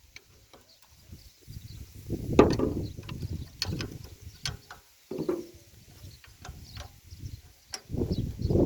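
Two-cylinder Deutz diesel engine being cranked to start, with irregular mechanical clanks and bursts. About 8 seconds in it catches and runs, louder and steady.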